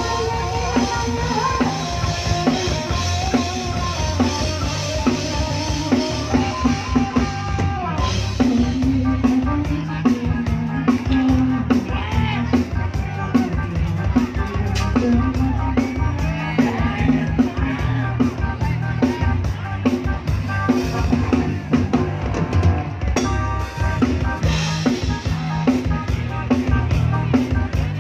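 Live band playing an instrumental passage with a drum kit and bass. A melodic lead line rides over it for the first several seconds, then it drops to a steady groove of drums and bass.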